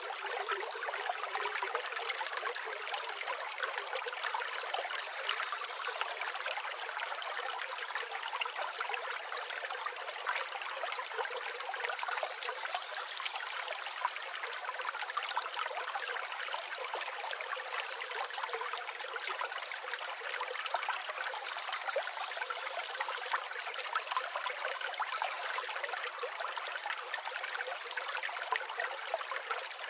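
River water flowing, babbling and trickling steadily.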